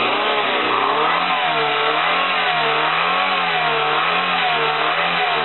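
Loud car engine of a Peugeot running with its bonnet open, revving gently up and down so that its pitch rises and falls about once a second.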